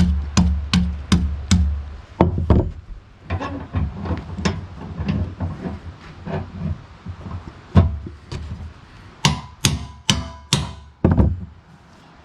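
A series of sharp knocking strikes: fast and evenly spaced for about the first two seconds, then irregular, with a cluster of louder, brighter ones near the end.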